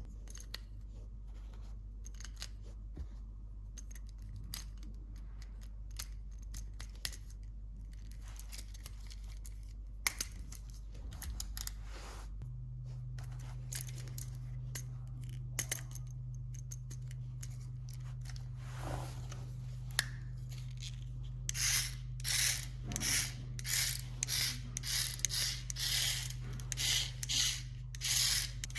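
Small clicks and rustles of toys and packaging being handled. About halfway through a steady low hum starts, and in the last seven seconds there is a rapid run of short mechanical bursts, about two a second.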